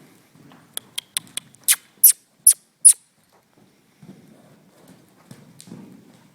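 A handler's kissing and clucking sounds urging a horse on at the lunge: four quick sharp clicks, then four louder squeaky smacks about half a second apart, over soft hoofbeats in snow.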